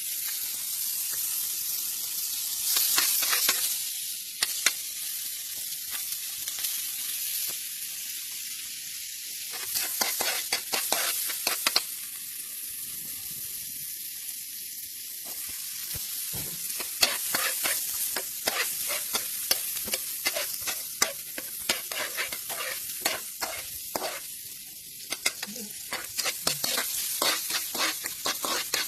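Food sizzling in hot oil in a frying pan, with a utensil clicking and scraping against the pan in bursts as it is stirred.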